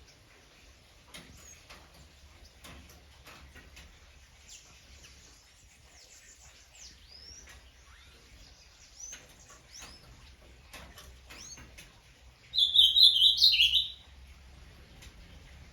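Several small birds chirping with short, quick notes, and one much louder choppy call lasting about a second and a half near the end.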